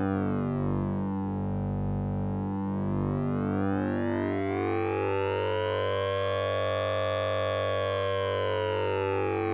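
Synthesized "Sync'n'Ring" effect from the Orange Vocoder VST plugin: a steady low hum under a stack of metallic, siren-like overtones. The overtones sweep down in pitch, rise slowly to a peak about seven seconds in, then start falling again near the end.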